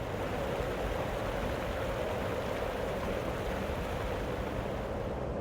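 Rushing water of a waterfall: a steady, even roar.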